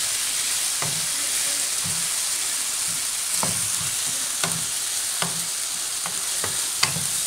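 Onion, tomato and green chilli masala sizzling steadily in a wok while a wooden spatula stirs it, scraping the pan about once a second. The sizzle cuts off suddenly at the end.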